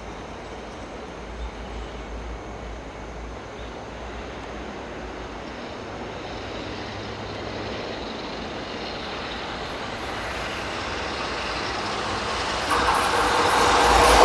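Freight train approaching on the line, its rumble growing steadily louder, then jumping up sharply near the end as it reaches the near track.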